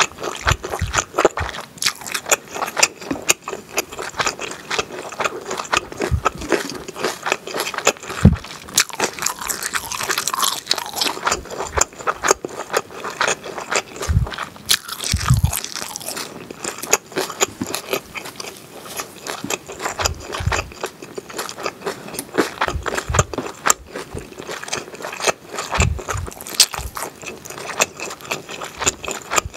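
Close-miked chewing of kimchi, mainly ponytail radish kimchi (chonggak-gimchi): a steady run of crisp, wet crunches as the firm radish is bitten and chewed, with occasional soft low thumps.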